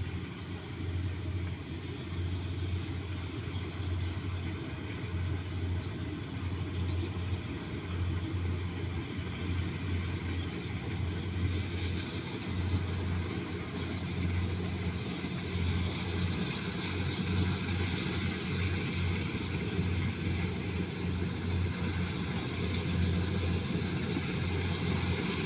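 A steady low engine-like drone that pulses unevenly, with short high chirps recurring every couple of seconds.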